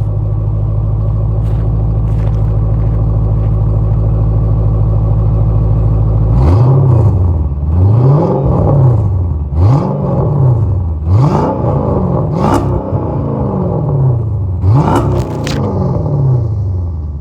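5.7L Hemi V8 of a Dodge Charger R/T through SLP Loudmouth dual exhaust and BBK shorty headers, idling steadily. About six seconds in it is blipped about six times, a second or so apart, each rev rising and falling back to idle.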